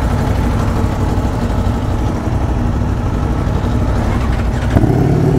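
Heavy vehicle engine idling steadily. Near the end a second, louder engine suddenly joins in.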